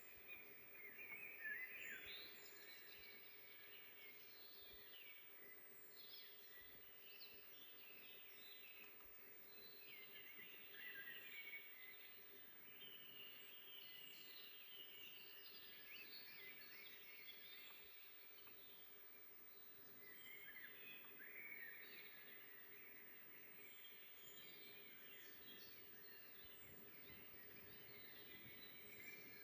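Faint birdsong: several birds singing at once in a steady chorus of short chirps and trills, over a thin steady hum.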